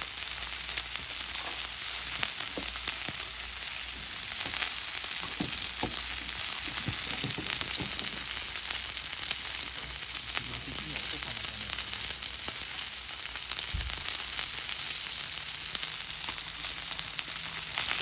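Meat searing on a thick 6 mm steel griddle plate, sizzling steadily in its own running fat, with scattered small pops.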